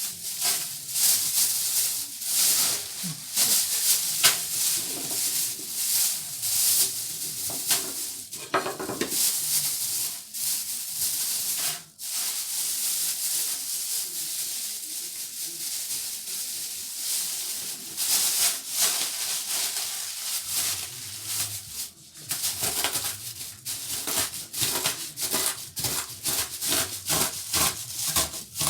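Scraping and rubbing strokes of food being worked by hand in the kitchen. In the later part they settle into a fast, even rhythm of about four strokes a second.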